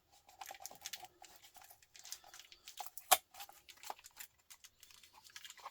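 Small clicks and rustling as the parts of a dismantled battery pack are handled, with one sharp click about three seconds in.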